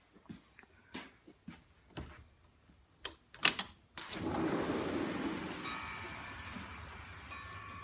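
Clicks and knocks of a door being handled, then a door opened about four seconds in, letting in the steady hiss of heavy rain; faint held tones sound over the rain near the end.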